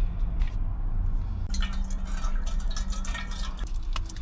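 Water in a pot on a charcoal stove-top making small trickling, dripping sounds. A run of quick little crackles starts about a second and a half in and lasts about two seconds, over a low steady hum.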